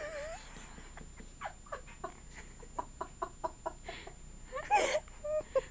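A person's voice making a string of short, quick sounds, about three or four a second, then a louder one near the end.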